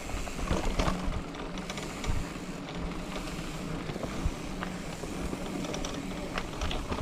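Bicycle ridden over a rough dirt trail: steady tyre and wind noise with scattered small clicks and rattles from the bike over bumps.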